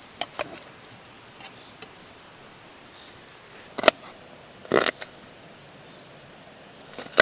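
A knife cutting onions on a board: a few sharp knocks at uneven intervals, one near the middle a little longer and scraping.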